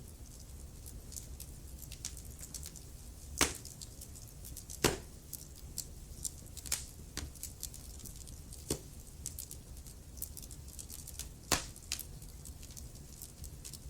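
Wood fire crackling in a fireplace: a steady run of small crackles over a low, steady rumble, with a few louder pops about three and a half, five and eleven and a half seconds in.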